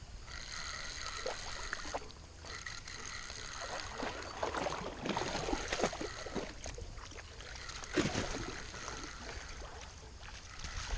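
Shallow creek water splashing and sloshing in irregular bursts, busiest in the middle of the stretch.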